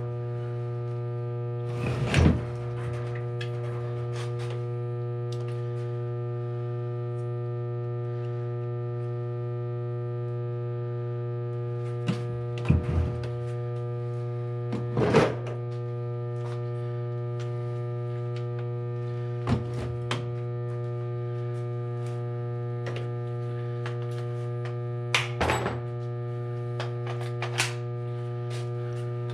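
Steady electrical hum, with scattered metallic knocks and clinks of hand tools and engine parts being handled during a motorcycle engine teardown; the loudest knocks come about two seconds in and about fifteen seconds in.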